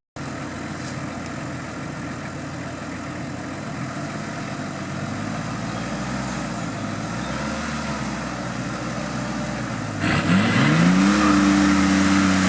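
Off-road competition vehicle's engine running at low revs, then about ten seconds in revving up sharply, louder, and holding high revs.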